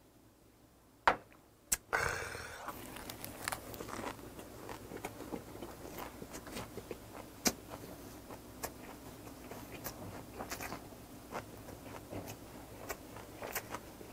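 Close-up eating sounds: a man chewing a crunchy mouthful of grilled pork belly with mustard-leaf kimchi, with many irregular small crunches and wet mouth clicks. Before the chewing, two sharp clicks come about a second in.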